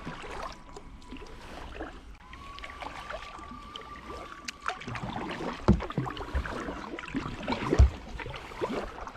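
Kayak paddle strokes dipping and splashing in lake water, with two dull knocks a couple of seconds apart near the end.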